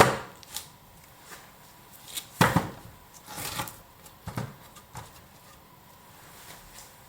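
Irregular wooden knocks and thuds from handling split green log pieces, a handful of impacts with the loudest cluster about two and a half seconds in.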